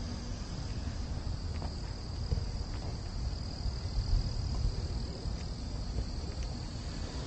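A steady, high-pitched chorus of insects chirring without a break, over a low rumble from the walk.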